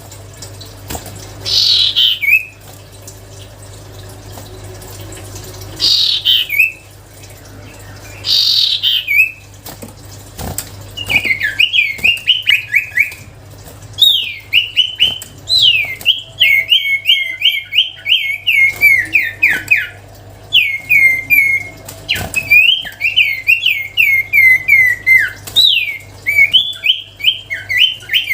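Cipoh (iora) singing. It gives three separate long down-slurred whistles in the first nine seconds, then from about eleven seconds in rapid runs of short down-slurred whistled notes, over a steady low hum.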